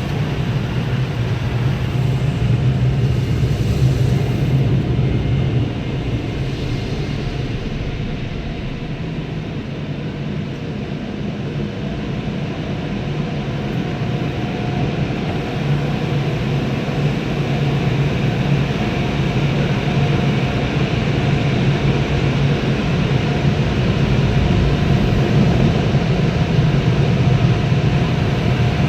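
Car wash heated dryer blowers running, a loud steady rush of air with a low hum, heard from inside the car's cabin. It eases a little about six seconds in and builds again toward the end.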